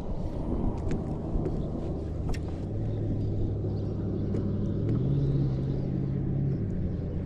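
A low engine hum holding a steady pitch, which steps up about five seconds in and drops back about a second and a half later, with a few small clicks over it.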